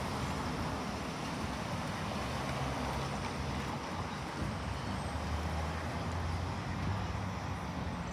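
Amtrak passenger train rolling past: a steady rumble with a low, slightly shifting engine hum underneath.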